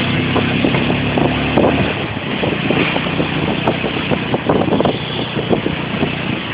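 Motorcycle engine running, heard over wind buffeting on the microphone. The engine's steady tone is clear for about the first two seconds, then it is largely covered by gusty wind noise.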